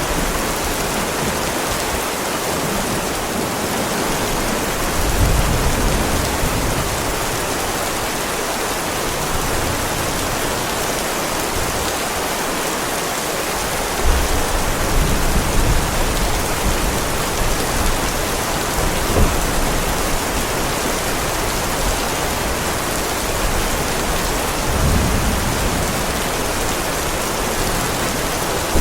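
Heavy rain falling steadily on a paved driveway, an even hiss, with low rolls of thunder about five seconds in, again for several seconds from about fourteen seconds, and once more near the end.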